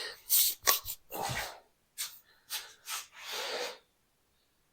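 A series of short rustling and rubbing noises, with a sharp click about two-thirds of a second in.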